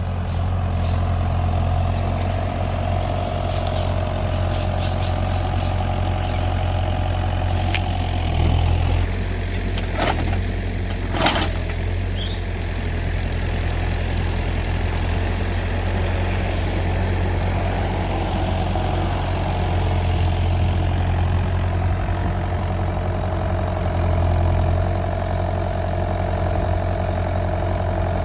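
Kubota excavator's diesel engine running steadily while the hydraulic grab is worked. A higher tone fades out and back in over its low hum, and two sharp knocks come about ten and eleven seconds in.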